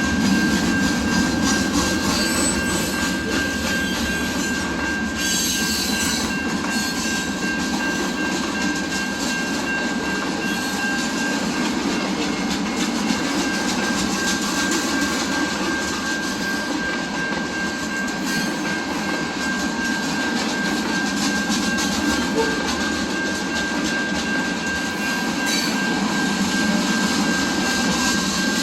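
Train cars rolling past at steady speed: a continuous rumble of wheels on rail, with a steady high-pitched whine over it.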